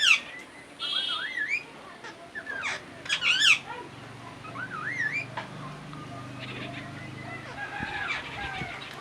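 Parrot chirping and whistling: a run of short chirps and rising-and-falling whistled swoops, loudest about three seconds in. A low steady hum sits underneath in the second half.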